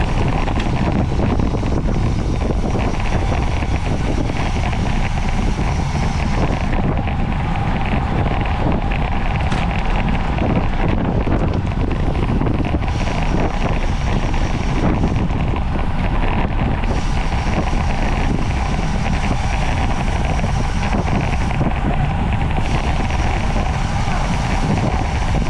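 Steady, loud wind rush buffeting the microphone of a camera riding along at race speed on a bicycle.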